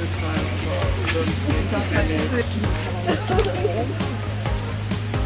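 Steady, high-pitched insect drone of cicadas, holding one unbroken tone without a pause.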